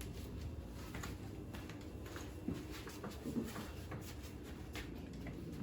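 Faint scattered clicks and light knocks of hands working a boat's shift control into forward, over a low steady hum.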